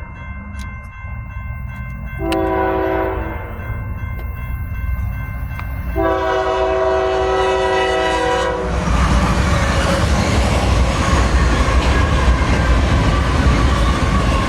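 Locomotive air horn sounding a chord: a short blast about two seconds in, then a long blast, the end of a grade-crossing horn sequence. Then the train passes close by with a loud steady rumble and clatter of wheels on the rails.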